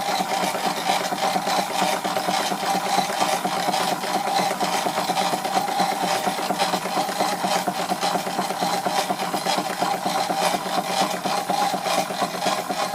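Live-steam Stuart Victorian mill engine running steadily on steam from a gas-fired Stuart 501 boiler, driving a Wilesco fairground model: a fast, even mechanical beat with rattling from the engine shaking its flimsy table.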